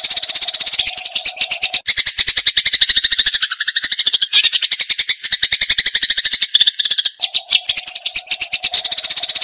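Eurasian tree sparrows chattering fast and without a break, the excited calls of sparrows squaring off to fight. The notes come many times a second in a long unbroken run.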